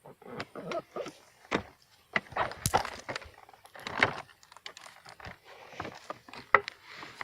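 A run of irregular knocks and clunks, with rustling between them.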